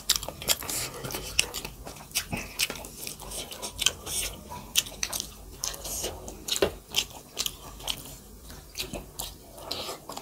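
Close-miked chewing and wet lip smacking from people eating soft maize dhido and chicken curry by hand. It comes as a quick, irregular run of mouth clicks and smacks.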